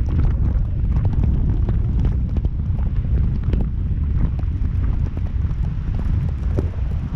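Strong wind buffeting a GoPro Fusion 360 camera's microphones: a loud, steady low rumble with crackles throughout.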